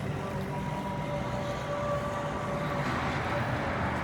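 Steady mechanical drone with a few faint held whining tones.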